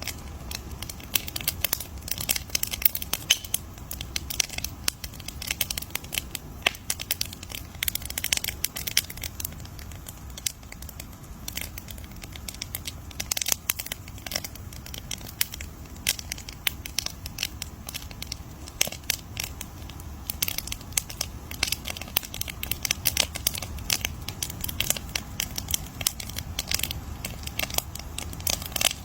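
Wood campfire crackling, with dense, irregular sharp snaps and pops over a low steady rumble.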